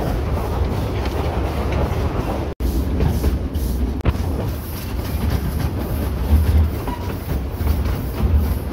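Narrow-gauge steam train running along the track, heard from just behind the 1925 Vulcan locomotive: a steady low rumble of wheels on rails. It breaks off for an instant about two and a half seconds in.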